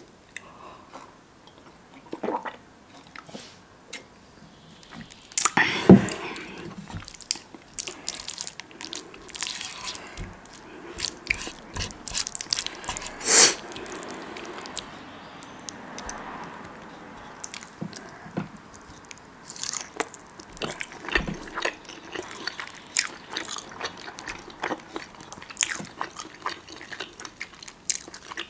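Close-miked eating: wet chewing and biting mouth sounds with many small clicks, and two louder bites, about six seconds in and near the middle.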